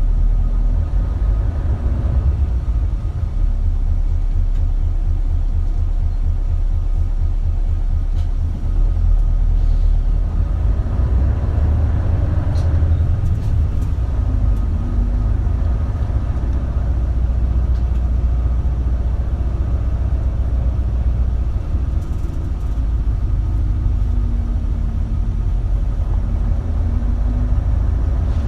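Isuzu Erga city bus (KL-LV280L1) engine and drivetrain running under way, a steady low rumble heard from inside the cabin, its engine note slowly rising and falling.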